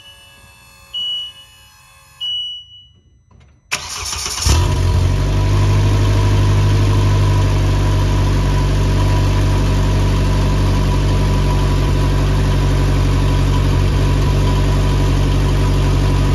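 Two electronic beeps, then the Polaris Slingshot SL's 2.0-litre four-cylinder engine cranks and catches just under four seconds in and settles into a steady idle. It is started on fresh oil to build oil pressure for a leak check.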